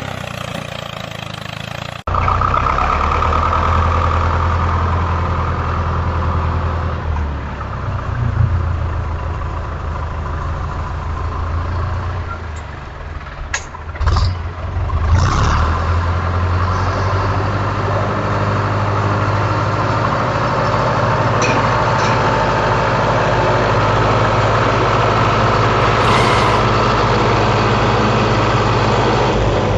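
A small motor runs steadily with a low, even hum, and briefly dips with a few sharp clicks around the middle.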